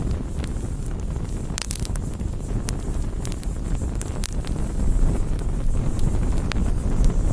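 Wood campfire burning, with sharp crackles and pops from the burning wood: a small cluster about a second and a half in and scattered single pops after. A steady low rumble runs underneath.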